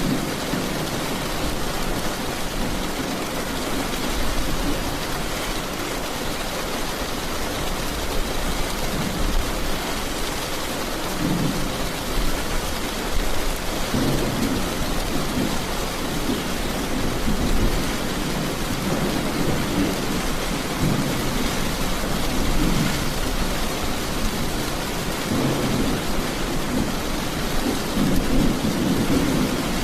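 Heavy rain falling steadily in a dense, even hiss, with low rolls of thunder swelling and fading several times.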